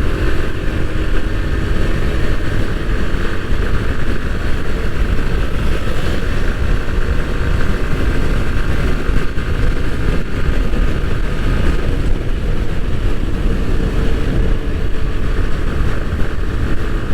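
Bajaj Pulsar NS160's single-cylinder engine running steadily at cruising speed, with heavy wind rush on the microphone from riding.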